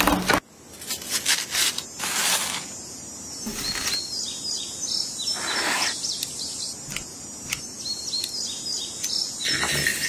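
Small birds chirping in many short, quick high calls. A few short bursts of scraping and crunching from food being cut and scooped come through between them.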